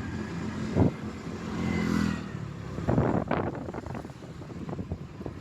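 Road noise from riding a motorcycle: the engine running under a steady rumble, with a few short loud buffets of wind on the microphone, one about a second in and several around the middle.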